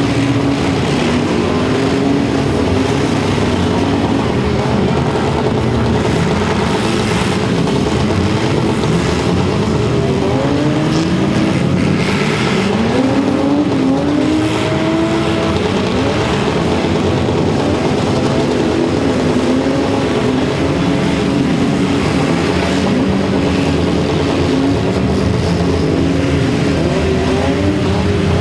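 Several car engines running and revving at once, their pitches rising and falling independently, over a continuous haze of noise.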